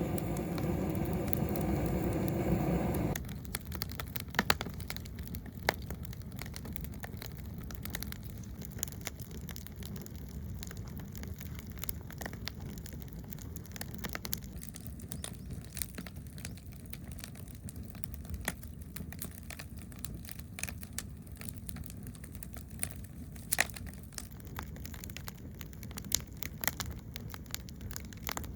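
Oak wood fire crackling, with frequent sharp snaps and pops over a low steady rumble. A steady pitched hum in the first three seconds stops abruptly.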